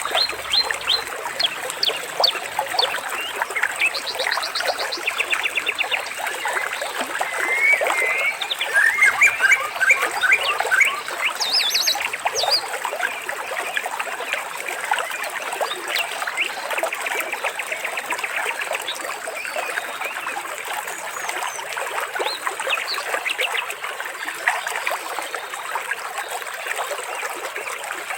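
Birds chirping and trilling over steadily trickling water, with a burst of louder chirps about a third of the way in.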